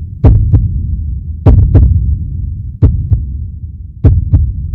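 Heartbeat sound effect: four double thumps, a loud beat followed by a softer one, about every 1.3 s over a steady low rumble.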